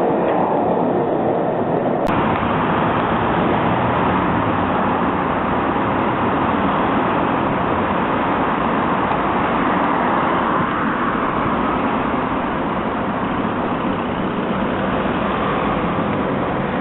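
Steady city street traffic noise, loud and even throughout. It changes abruptly with a click about two seconds in.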